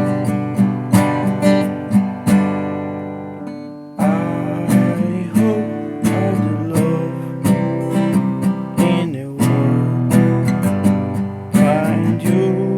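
Acoustic guitar strummed in a steady rhythm as a folk song's instrumental break. Near the start a chord is left to ring and fade, then the strumming starts again suddenly about four seconds in and carries on.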